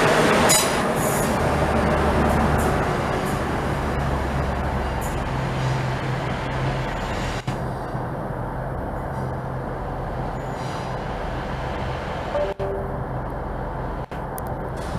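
A train running through the station, with a steady low drone under a broad rumble that slowly fades.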